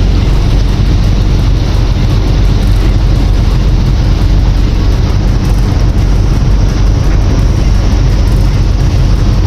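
Loud, steady rumble and rush aboard a moving river ferry: wind buffeting the microphone over the boat's engine and water noise.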